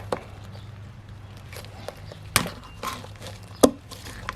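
Handling noises: a few sharp knocks and clicks, the loudest two about two and a half and three and a half seconds in, over a low steady hum.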